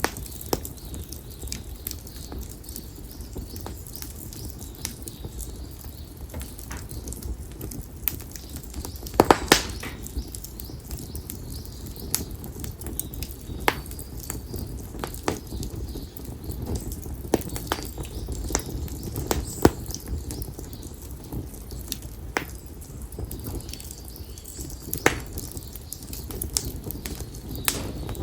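Split konara oak firewood burning in an open campfire, crackling with irregular sharp pops over a steady low rumble. There is a loud double pop about nine seconds in.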